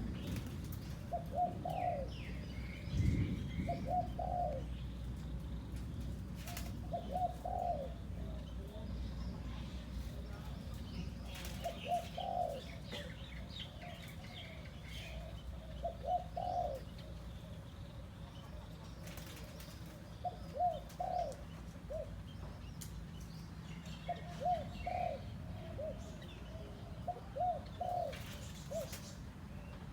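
A decoy dove cooing, short phrases of a few low notes repeated every few seconds, with faint chirps of other small birds.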